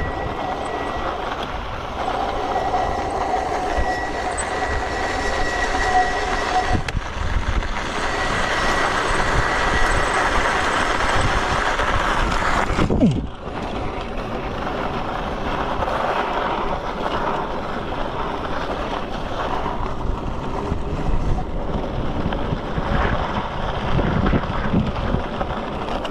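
Freego X2 electric dirt bike rolling down a steep, rocky dirt slope: the tyres and frame rattle and rumble over loose rock, with wind on the microphone and a steady high whine through the first ten seconds. About thirteen seconds in, the noise drops suddenly with a short falling pitch.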